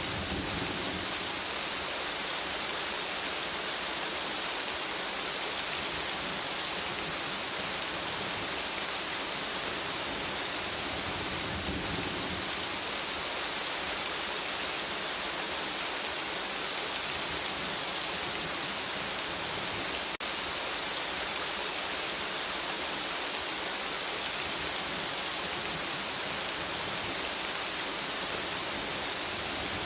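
Steady rain falling on forest foliage, an even hiss of dense drops at a constant level, with a brief low rumble near the middle.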